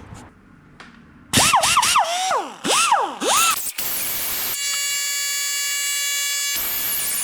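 Die grinder winding up and down several times, its pitch rising and falling, then running at a steady high whine, then grinding on the cast-iron Kubota exhaust manifold from about six and a half seconds in, with a broad hiss and a wavering high-pitched whine.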